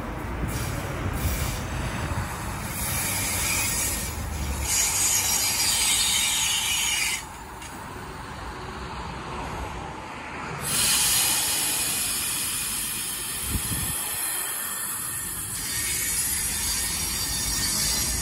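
V-set double-deck electric train running into the platform: a steady rumble and rush of wheels on rails with rubbing and rattling from the carriages. The noise drops suddenly about seven seconds in and comes back about four seconds later.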